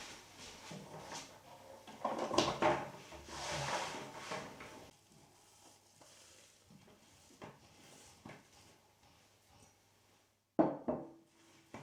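Handling of wooden household objects indoors: a few seconds of rubbing and clatter, then scattered light clicks, and one sharp knock near the end with a brief ring after it.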